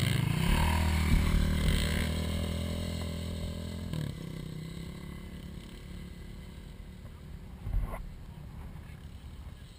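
ATV engine running at high revs under full throttle, loud at first, then fading steadily from about four seconds in as it moves away. A single thud comes near the end.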